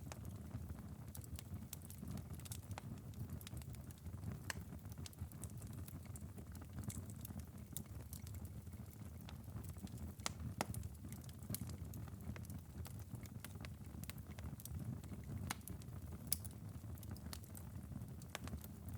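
Wood-burning fireplace ember bed crackling: irregular sharp pops and ticks over a steady low rumble, the coals glowing after hours of burning.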